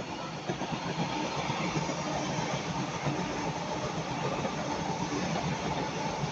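TransPennine Express Class 397 electric multiple unit passing, with a steady noise of wheels running on the track and a faint steady tone.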